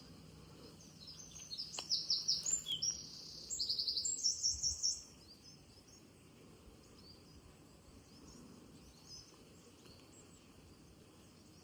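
A songbird singing a loud run of fast, high repeated notes and trills for about four seconds, then only faint distant birdsong.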